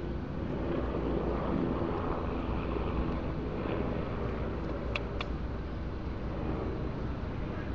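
Steady low background rumble, with two short, sharp high clicks about five seconds in.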